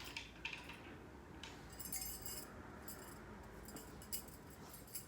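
Faint small clicks and light clinks of a Bed Head Wave Artist hair waver being handled in hair, with a brief rustle about two seconds in.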